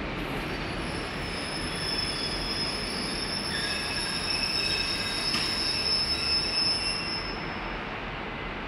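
Passenger coaches' wheels and brakes squealing as the train slows to a stop: a high steady squeal of several tones over a low rumble, swelling toward the middle and dying away near the end as the train halts.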